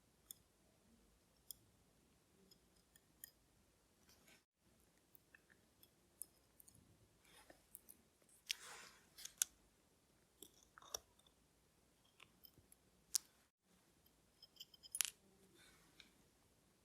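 Faint, scattered clicks and taps of small metal watchmaker's tools and tiny watch parts being handled while a watch movement is taken apart, with a few brief scraping swishes.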